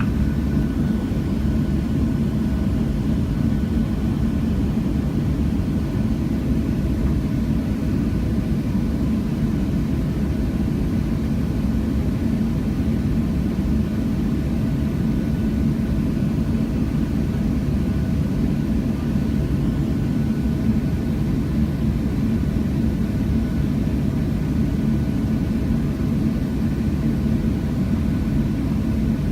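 Steady engine and airflow rumble of a Southwest Boeing 737 heard from inside the passenger cabin, with a few faint steady tones riding on it.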